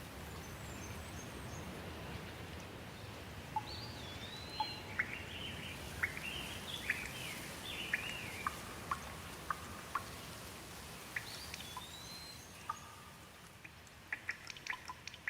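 Steady rain hiss with birds calling over it: short chirps and rising-and-falling whistles from about a third of the way in. Near the end the rain eases and single drips stand out.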